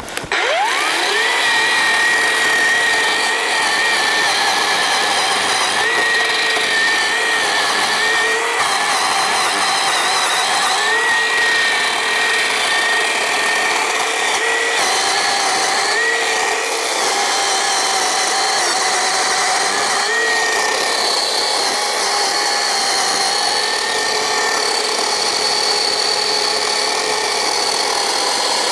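Black+Decker 36 V cordless electric chainsaw spinning up with a rising whine, then running steadily while cutting logs. Its motor note dips briefly every few seconds as the chain is loaded in the wood.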